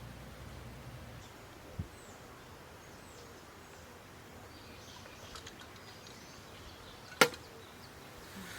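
Quiet forest ambience with a few faint, high bird chirps, a soft tap a little under two seconds in, and one sharp, loud click about seven seconds in.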